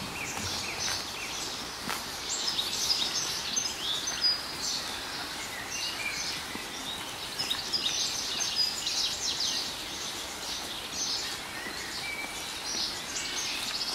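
Several songbirds singing, many short high chirps and trills overlapping throughout, over a steady faint background hiss.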